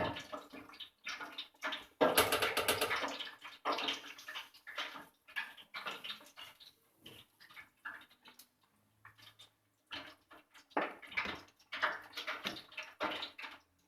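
Chicken wings bubbling and sizzling in hot oil in a deep fryer, with a spoon stirring and separating them in irregular splashy bursts; the loudest burst comes about two seconds in, with a few sharp knocks of the spoon later on.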